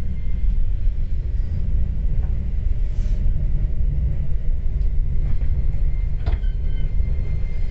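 Steady low rumble of an E231-series commuter train, with a few brief clicks, the sharpest about six seconds in.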